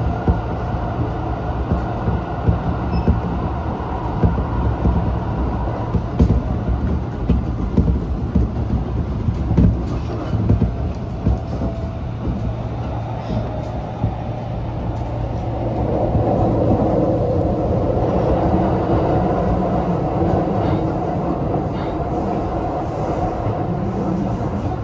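Hanshin Railway electric train running, heard from inside the car: a steady rumble with clicks of the wheels over the rails, growing louder about two-thirds of the way through.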